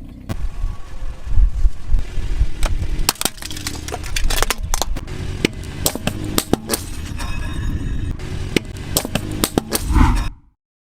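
Something brittle cracking and snapping under a car tyre: a rapid, irregular run of sharp cracks over a low rumble, cutting off abruptly near the end.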